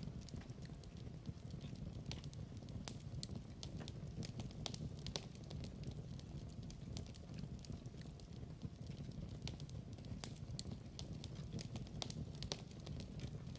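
Log fire burning, with a steady low rumble under frequent sharp, irregular crackles and pops.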